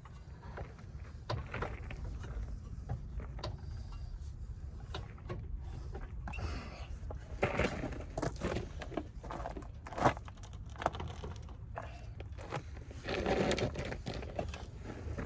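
Scattered clicks, clanks and knocks of hand tools and parts being handled during car repair work, over a steady low rumble, with a couple of louder scraping bursts midway and near the end.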